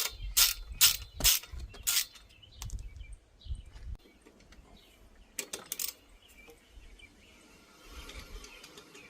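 Ratchet wrench clicking while working the crank: a few loud, evenly spaced clicks in the first two seconds, then stopping. A short cluster of clicks follows about five and a half seconds in, with faint handling noise between.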